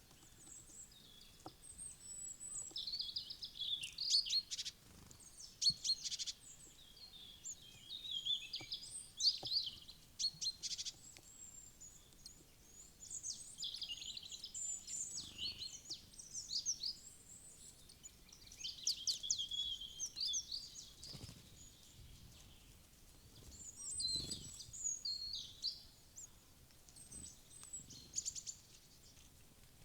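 Small wild birds chirping and calling: quick series of high, thin notes and short trills that overlap, coming in several bursts with brief lulls between.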